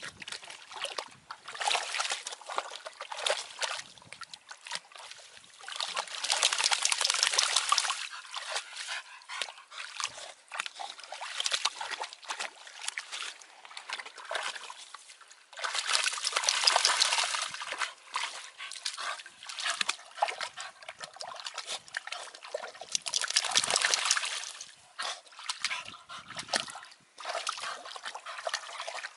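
Puppy splashing and sloshing about in muddy ditch water, with three spells of heavier splashing.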